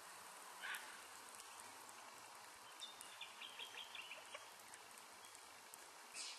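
Near silence with a faint outdoor hiss. About three seconds in, a small bird gives a quick run of high chirps, about eight notes in a second and a half. Two brief scuffs come near the start and near the end.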